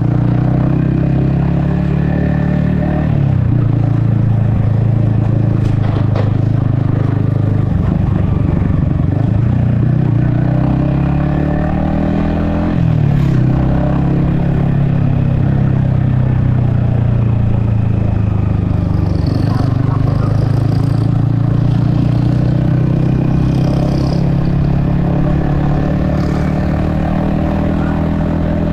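Yamaha XSR155's 155 cc single-cylinder engine running under way, its pitch rising and falling as the rider accelerates and eases off. There is a sharp drop in pitch about 13 seconds in.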